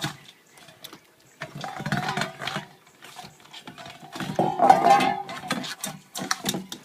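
A puppy batting and pushing its water bowl around, the bowl rattling and scraping against the floor in several bursts, the loudest about four to five seconds in.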